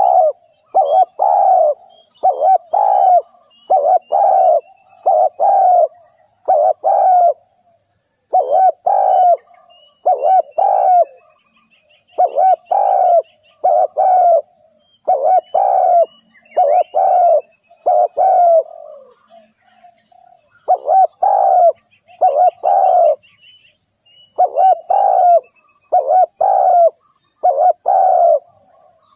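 Spotted dove cooing: loud phrases of two or three coo notes, repeated one after another with short pauses. This is a decoy dove's call, used to lure wild doves. Small birds chirp faintly in the background.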